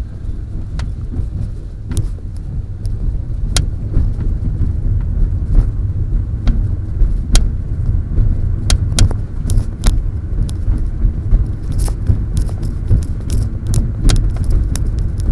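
Lada Vesta Cross cabin rumble while driving, heard through a headset microphone tucked between the headliner and the roof, with many sharp body clicks that come more often near the end. The clicks are the body noise being hunted, which the owners suspect comes from the rear window glass coming unglued as the body flexes.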